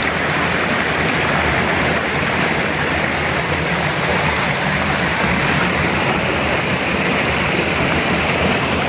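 Steady rush of a flowing river, an even wash of water noise with no breaks.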